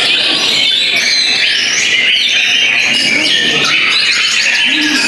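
Many caged white-rumped shamas (murai batu) singing at once, a dense, loud tangle of overlapping whistles and chirps.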